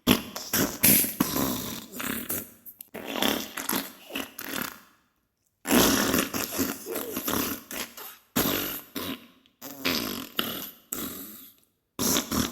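Diarrhea sound effect: wet, sputtering bursts of flatulence, broken by a pause of about a second around five seconds in and a brief drop near the end.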